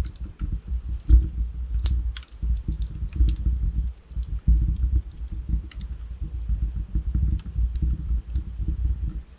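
Wood fire burning in a fireplace: a steady low fluttering of the flames with logs crackling in scattered sharp pops, a small flurry of louder pops about two seconds in.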